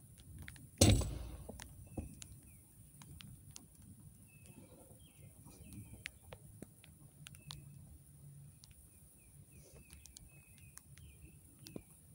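Birds chirping in short, repeated calls. A loud thump comes about a second in, and faint scattered clicks run throughout.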